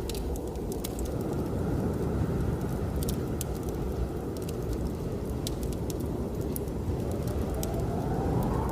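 Wood fire crackling in a fireplace, sharp pops scattered irregularly, over the steady low rumble of blizzard wind, which whistles faintly near the end.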